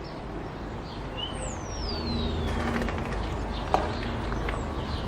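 Outdoor ambience with a steady low rumble and bird calls, including one long whistle falling in pitch and a few short chirps. One sharp click comes about three-quarters of the way through.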